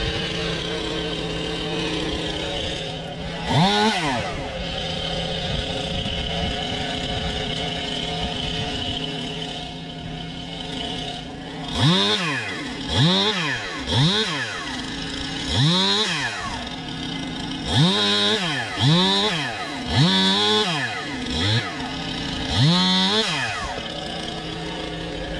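An engine is revved up and back down in short, quick bursts, once early and then about ten times in a row in the second half, over an engine running steadily.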